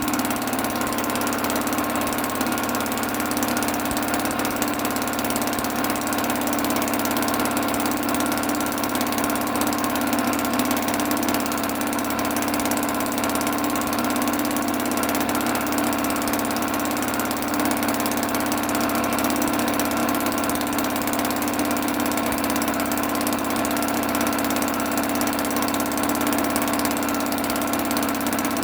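1974 British Seagull 40 Plus Mark II outboard, a single-cylinder two-stroke, running steadily, a purr, on a 25-to-1 fuel mix through its newly fitted needle jet.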